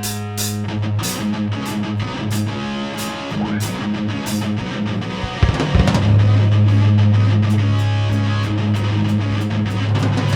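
Live band playing rock with electric guitar and drum kit, a sustained low bass note underneath; the band comes in louder about five and a half seconds in.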